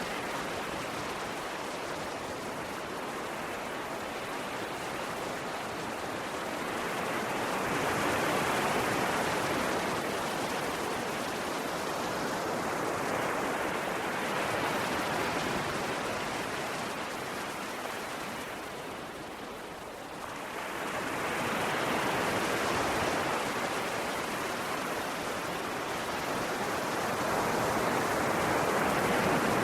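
Ocean waves breaking and washing ashore: a steady rush of surf that swells and eases every six to eight seconds, with a short lull about two thirds through.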